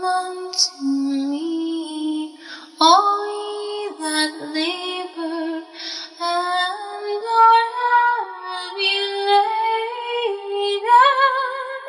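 A woman's voice singing a slow melody of held notes that step up and down in pitch, phrase by phrase, in a Christian song setting words from Matthew 11.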